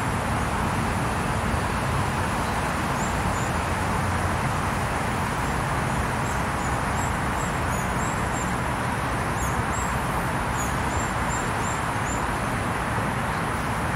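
Steady outdoor background noise with faint, high-pitched bird chirps: a quick series of short notes from about three seconds in until near the end.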